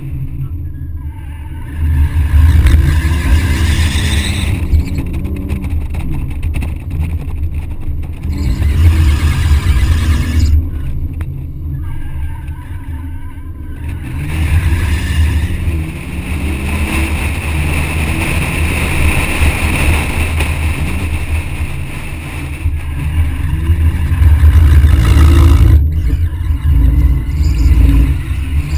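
BMW 130i's 3.0-litre inline-six engine revving up and down repeatedly as the car is drifted, with tyres squealing through the slides. Heard from a camera mounted outside the car, with heavy wind rumble on the microphone.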